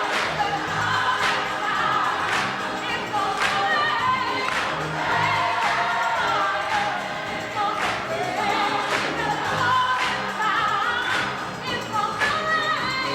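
Gospel choir singing in full voice over a steady beat that strikes about once a second.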